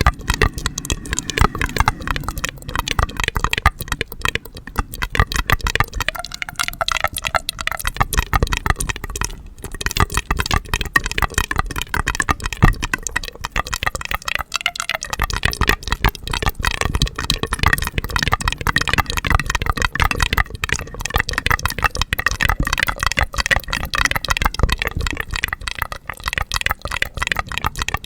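Dense, rapid crackling and clicking of small hard candies rattling and tumbling against each other, continuous without a break.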